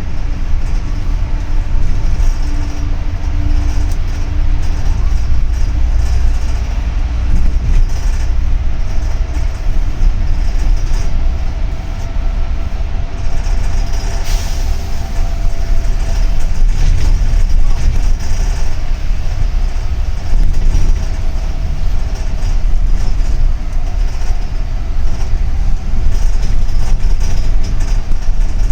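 Cabin noise of a double-decker city bus under way: a steady low engine and road rumble, with a faint whine rising and fading through the middle and a short sharp sound about halfway through.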